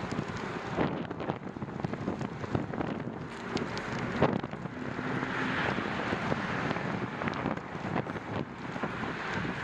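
Wind buffeting the microphone of a moving bicycle, with scattered sharp clicks and rattles throughout.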